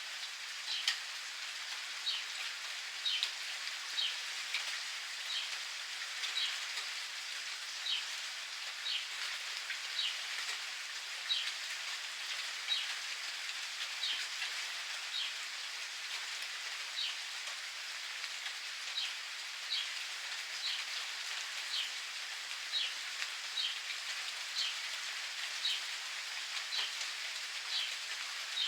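Steady rain pattering, with a bird calling over it in short, quick, falling chirps repeated about once a second.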